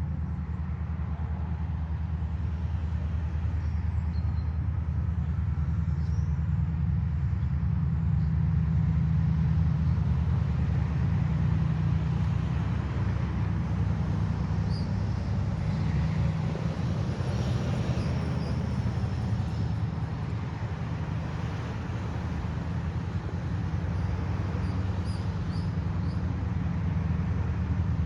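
2TE10UT diesel locomotive's 10D100 two-stroke diesel engines running steadily with a low, even hum.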